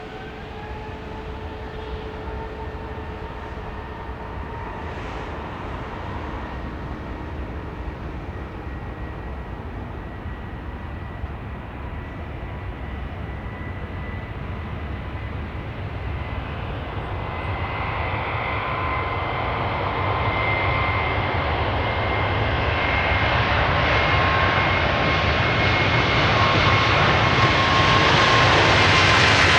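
Jet airliner's engines: a steady roar with a high fan whine that rises in pitch in the first couple of seconds, then grows steadily louder as the aircraft draws near, the whine beginning to drop in pitch at the very end as it passes.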